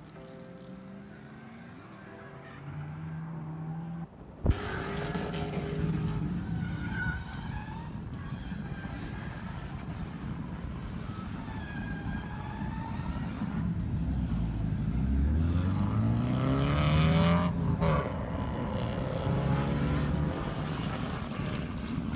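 Drift car engines revving hard, their pitch climbing and dropping as the cars are driven through the corners, with one long rising rev late on. The sound jumps louder about four seconds in.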